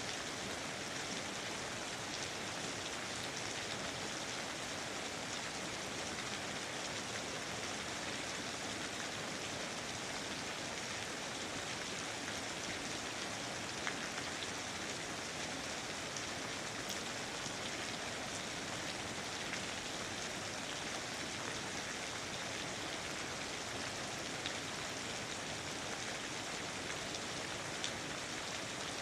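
Steady rain falling, a dense even hiss with occasional single drops ticking closer in.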